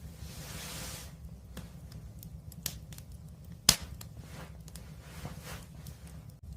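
Wood fire burning with a steady low rumble and scattered small crackles, and one loud sharp pop a little past halfway through.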